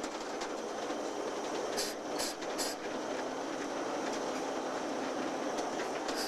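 Train of coal cars on the move behind USAF Engine 4040, with a steady rolling rumble of wheels on track. A few sharp metallic clicks from the wheels and rail come about two seconds in.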